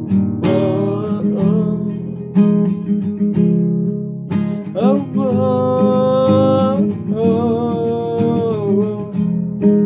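Music: a strummed acoustic guitar playing on after the last sung line, with two long held melody notes in the middle.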